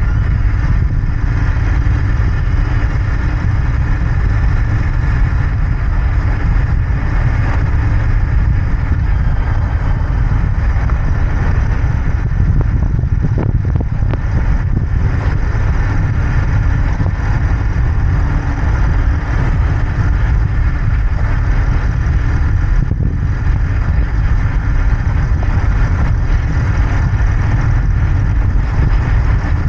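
Royal Enfield Interceptor 650's parallel-twin engine and exhaust running steadily while the motorcycle is ridden, heard from the rider's position.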